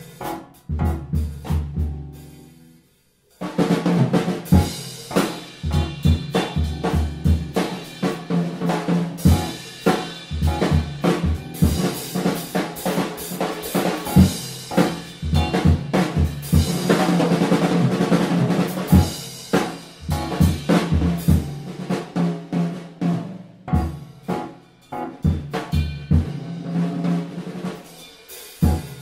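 Music with a drum kit playing snare, bass drum and rimshots under other pitched instruments, breaking off briefly about three seconds in before the band comes back in.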